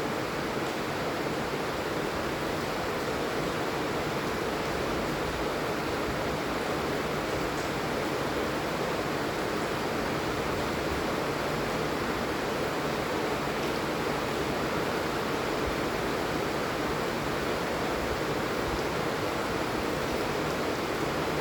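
Steady rain falling, a continuous even hiss of many drops with no change in intensity.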